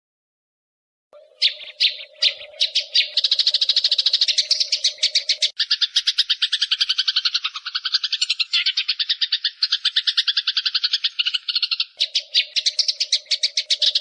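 Eurasian tree sparrows chattering in a fight: a fast, unbroken run of harsh chirps, about ten a second, starting about a second in. The chirps drop a little in pitch midway and rise again near the end.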